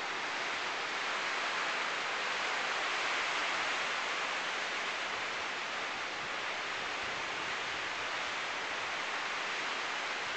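Rain falling, a steady, even hiss that holds unchanged throughout.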